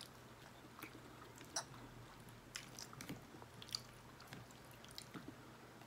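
Faint close-up chewing of a mouthful of lo mein noodles and vegetables, with scattered soft mouth clicks and small ticks.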